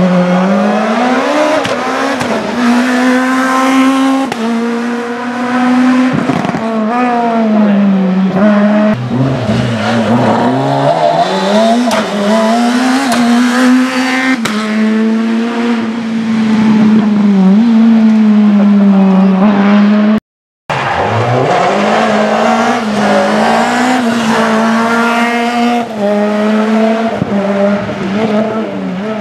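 Rally car engines at full throttle, revs climbing and dropping back again and again with gear changes as cars drive a special stage. About two-thirds of the way through the sound breaks off for a moment and another stretch of engine sound follows.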